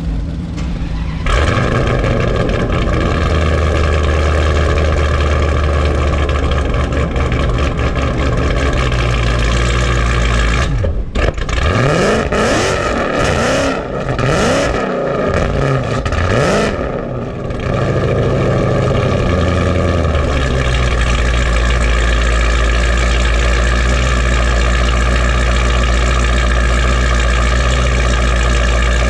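High-powered car engine running at a steady high drone. About eleven seconds in it revs hard in several rising sweeps, like accelerating through the gears down a drag strip, then settles back to steady running.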